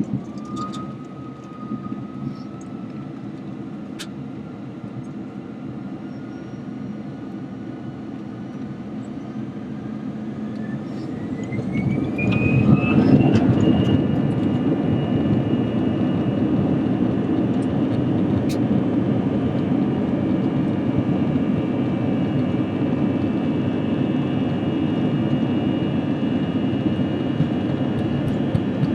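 Airbus A321 jet engines spooling up to takeoff thrust, heard from inside the cabin. A whine rises steeply in pitch and the rumble grows louder about halfway through. Both then hold steady at full power.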